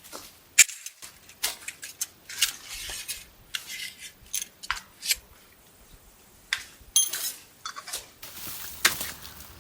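Metal cookware and utensils clinking and scraping in an irregular run of sharp clicks, a few of them ringing briefly.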